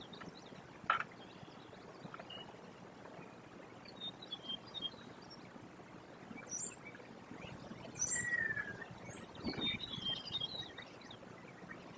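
Scattered short high bird chirps and calls over a steady outdoor hiss, busier in the second half. A sharp click about a second in and a soft thump late on.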